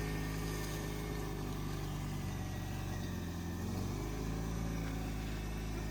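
Toyota MR2's swapped-in 2ZZ-GE four-cylinder engine running steadily after the engine swap, a low steady hum with a brief change in its lowest tone about three seconds in.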